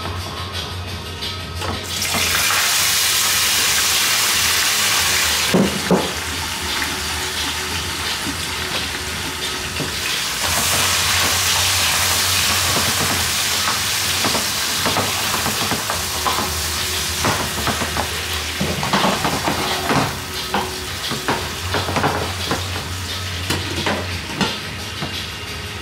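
Salt fish sizzling in hot oil in a frying pan as it is tipped into sautéed vegetables, with a spatula scraping and tapping the pan as it is stirred. The sizzle swells about two seconds in and again about ten seconds in.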